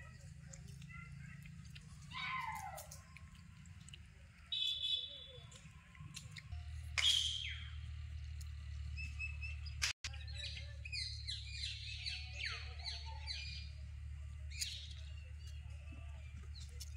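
Birds calling: a few sweeping, falling call notes, a short whistled note, then a quick run of short repeated chirps about two-thirds of the way through, over a low steady rumble.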